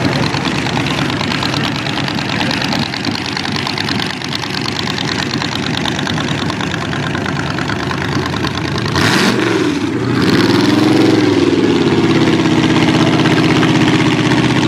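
Casket rail-car hot rod's engine idling, then revved once about nine seconds in: the pitch climbs and falls back, and the engine runs louder afterwards.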